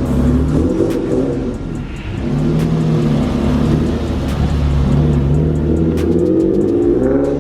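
Single-turbo Infiniti G37 coupe's 3.7-litre V6 engine running, with the revs rising near the end.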